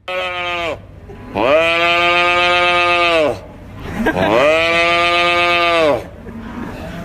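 Cattle mooing: three loud, drawn-out calls, a short one followed by two long, steady ones that each sag in pitch as they end.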